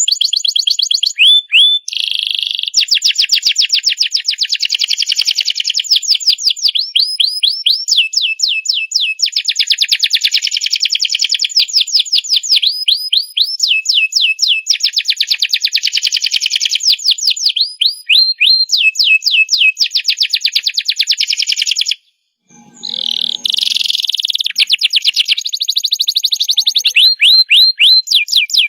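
Domestic canary singing a long, loud song of fast trills and rolls built from rapidly repeated notes. The song breaks off briefly about three-quarters of the way through.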